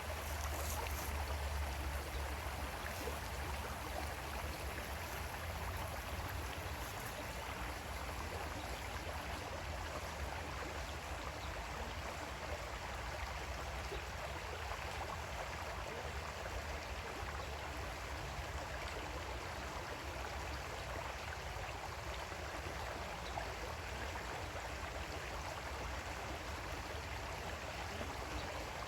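Creek water flowing steadily over stones, an even rushing and trickling with a deep low rumble.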